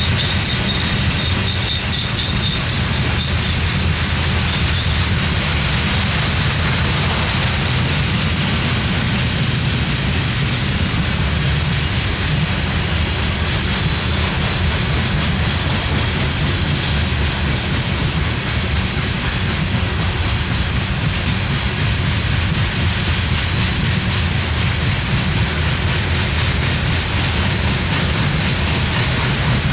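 Coal hopper cars of a freight train rolling steadily past: a continuous rumble with the wheels clicking over the rail joints, and a faint high-pitched wheel squeal in the first few seconds.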